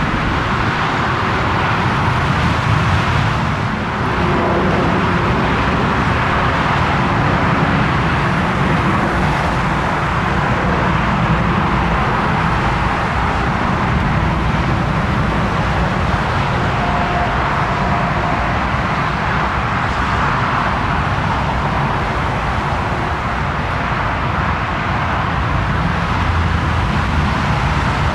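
Jet engines of a Lufthansa Airbus A340-300 airliner running with a steady, loud noise that holds level throughout.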